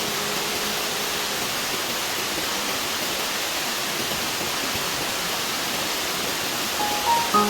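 Waterfall: steady, even rush of falling water, with a few notes of background music coming in near the end.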